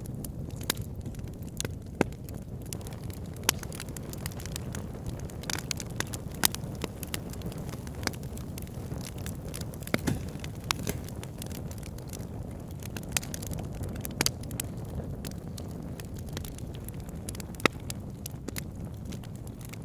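Wood fire burning in a fireplace: a steady low rumble of flames with irregular sharp crackles and pops of burning wood, a few standing out louder than the rest.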